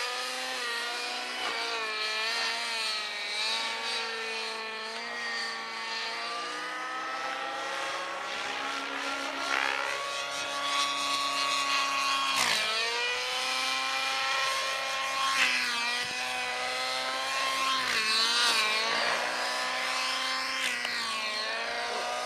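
Radio-controlled model helicopter flying, its high motor-and-rotor whine continuously rising and falling in pitch as it manoeuvres, with sharp sweeps in pitch about halfway through and again near the end.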